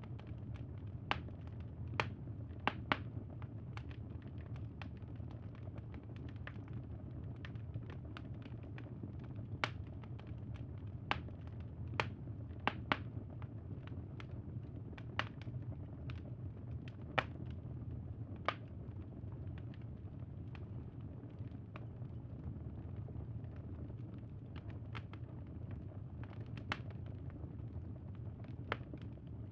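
Wood fire crackling: sharp irregular pops and snaps, a few louder than the rest, over a steady low rumble.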